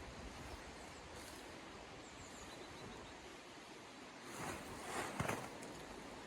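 Faint steady outdoor hiss, with a short rustling noise and a few sharp clicks about four to five seconds in.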